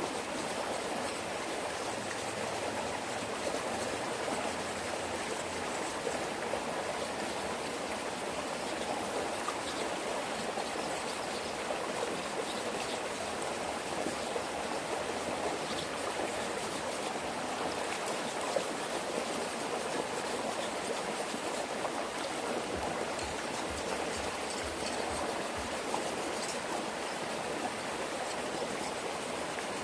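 Running water, like a stream flowing over stones, as a steady even rush.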